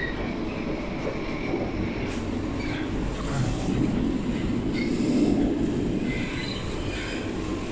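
Channel Tunnel shuttle train running, a steady rumble heard from inside its enclosed vehicle-carrying wagon.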